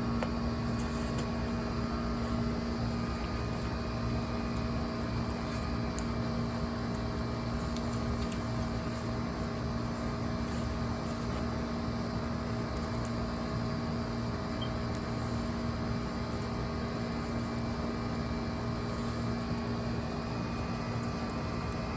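A steady mechanical hum at one constant pitch, like a motor or compressor running, with a few faint ticks over it.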